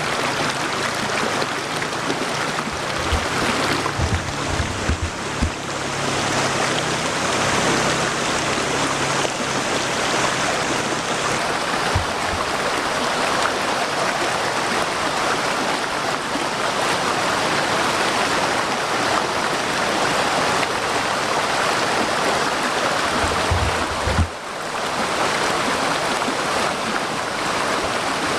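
Small waterfall splashing over rocks: a steady, even rush of falling water, with a few brief low thuds a few seconds in and again near the end.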